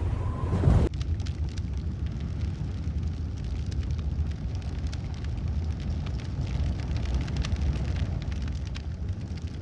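Dirt bike engine running as a steady low rumble, with wind buffeting the microphone. The sound changes suddenly about a second in.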